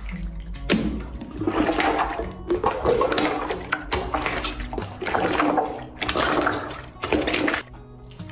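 Slime being squeezed and worked by hand, making wet squelching noises in repeated surges a second or two long, over soft background music.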